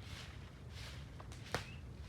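Repeated soft rustling swishes, about two a second, with one sharp snap or click about one and a half seconds in.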